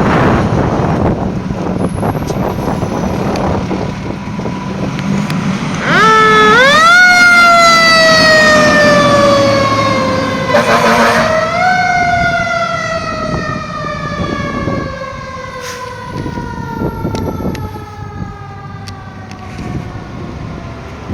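Fire truck siren winding up to a wail about six seconds in and slowly falling. It is wound up again about five seconds later, after a short noisy blast, and then slowly dies away. Before the siren starts there is only the loud rumble of the truck.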